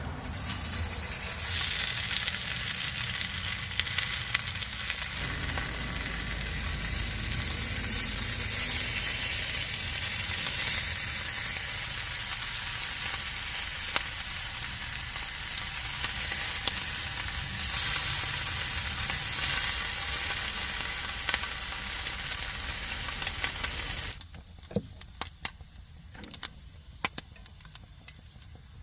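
Okonomiyaki frying in a hot pan, a steady loud sizzle. It cuts off suddenly near the end, leaving a few sharp clicks.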